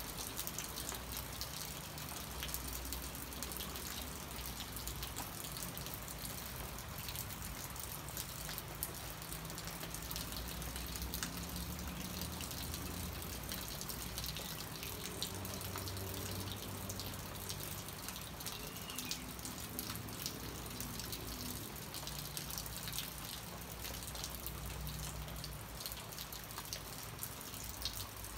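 Steady rain falling on banana plants, with many separate drop hits on the broad leaves over an even wash of rain noise.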